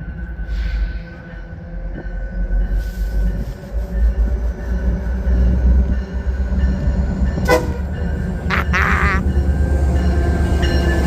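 A Northstar commuter train pulling in behind two diesel locomotives: a deep engine and rail rumble that grows louder as it approaches, with faint steady high tones above it.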